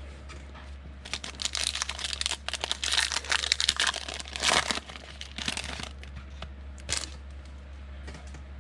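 A foil trading-card pack being torn open, with its wrapper crinkling. There is crackling over several seconds, loudest a few seconds in, then a shorter crinkle near the end.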